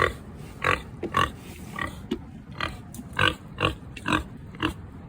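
A pig making a run of short, sharp sounds, roughly two a second.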